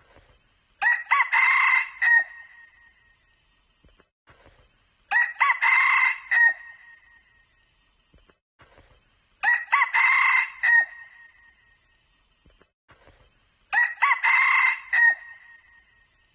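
Red junglefowl cock crowing four times, roughly once every four seconds, each crow short and clear and lasting about a second and a half.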